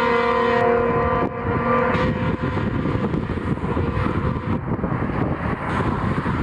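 Train horn sounding a steady chord of several tones that cuts off about a second in, followed by the steady rumble of the train running by.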